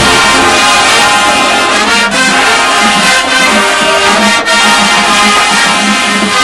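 A marching band's brass section playing loudly: trombones and trumpets holding sustained, full chords.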